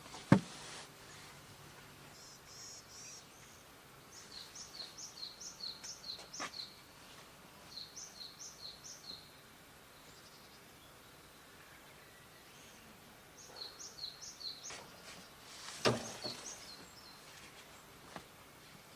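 A songbird singing runs of quick, high double chirps, about four a second, several times over. There is a sharp knock just after the start and another about sixteen seconds in.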